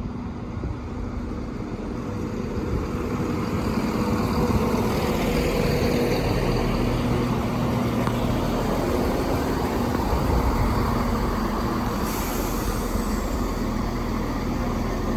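Diesel train running into the station. The engine and wheel noise grows louder over the first few seconds, then holds steady, with a brief high hiss about twelve seconds in.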